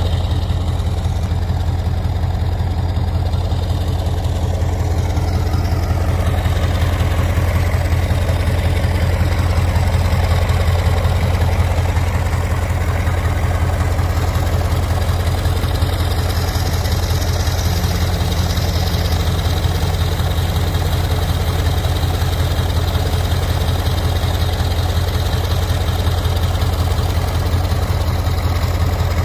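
T-150 tractor's swapped-in MAZ V8 turbo diesel engine running at a steady, constant speed, with a deep even rumble.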